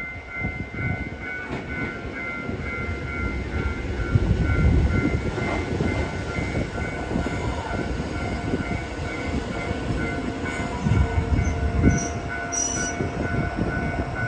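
JR Hokkaido H100 diesel-electric railcar pulling in, its engine and wheels rumbling steadily on the rails, with short high squeals near the end as it brakes. A steady high two-note tone sounds throughout.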